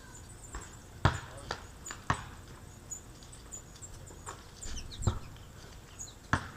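Small birds at a feeder giving short, high chirps throughout, with a quick run of calls just before the middle, broken by about five sharp knocks.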